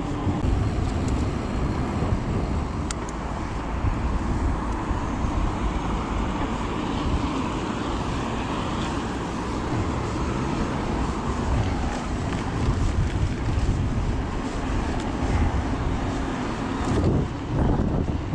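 Wind rumbling on the microphone while riding a mountain bike, a steady noise heaviest in the low end, with no clear motor tone above it.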